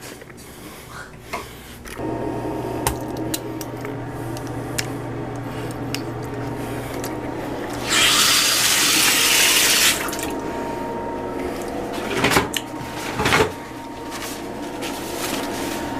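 Water running from a tap into a sink for about two seconds midway, over a steady hum that starts about two seconds in. A few short knocks follow near the end.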